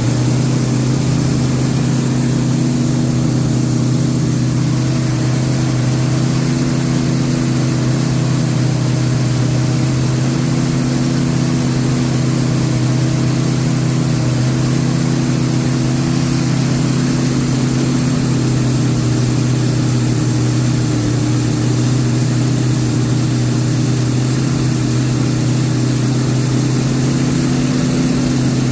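Chrysler 440 Magnum big-block V8 running steadily at a raised, fast-idle speed during break-in of the freshly worked-on engine.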